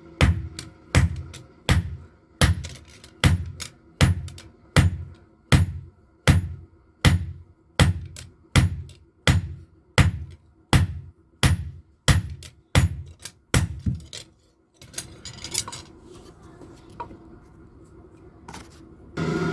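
Blacksmith's hammer forging a knife blade on an anvil, struck in a steady rhythm of quick double blows with a ringing tone, about four every three seconds, stopping about 14 seconds in. A steady machine noise starts near the end.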